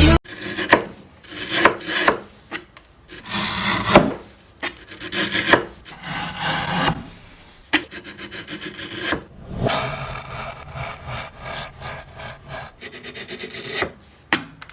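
Wood being worked with a hand tool: repeated scraping strokes, irregular in pace, with a run of quicker short strokes near the end.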